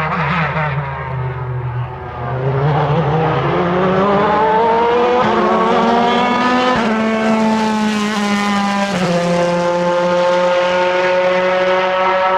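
Chevrolet Corvette C8.R race car's V8 at full throttle. The engine note sinks briefly as the driver lifts, then climbs steadily, dropping sharply at two upshifts, about halfway and three-quarters of the way through.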